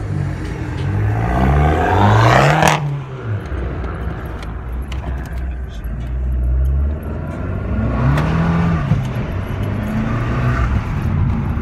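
A car engine revving hard as it accelerates, rising steeply in pitch and getting loud, then cut off abruptly about three seconds in. After that a car engine heard from inside the cabin, running lower and steadier, climbing in pitch again as it accelerates about eight seconds in.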